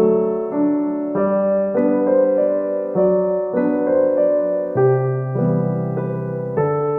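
Slow, gentle piano music: sustained chords and notes changing about every half second to a second.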